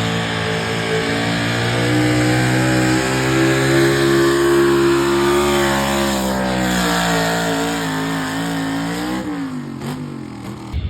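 Chevrolet Colorado pickup's engine held at full throttle while pulling the weight sled, its pitch climbing slightly and then falling away as the truck bogs down. The engine drops off near the end as the pull finishes.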